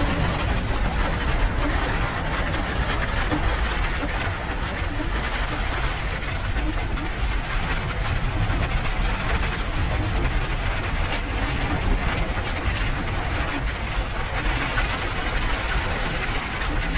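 Steady rain, an even hiss with a deep rumble underneath.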